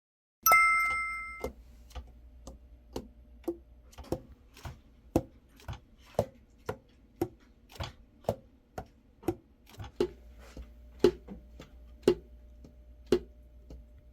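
A single bright, ringing ding, then a steady run of sharp clicks about two a second, some louder than others.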